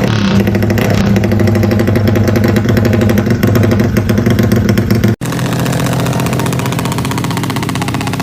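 Yamaha Y15ZR motorcycle's single-cylinder engine running at a steady speed. It breaks off for an instant about five seconds in, then carries on a little quieter.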